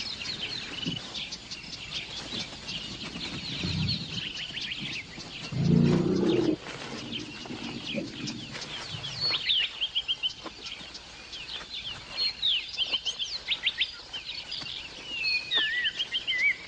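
Several birds chirping and trilling in quick repeated notes, with a brief louder low sound about six seconds in.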